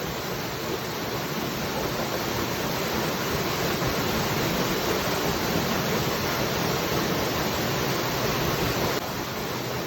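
Waterfall: a steady rush of falling water, even across low and high pitches, dropping a little in loudness about nine seconds in.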